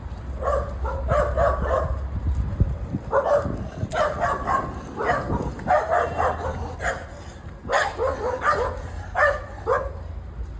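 A dog barking over and over in quick runs of two or three barks.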